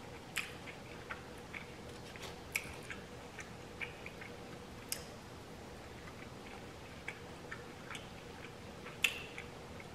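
Close-up eating sounds of chicken wings being chewed and picked off the bone: scattered small wet clicks and smacks, the loudest about 9 seconds in.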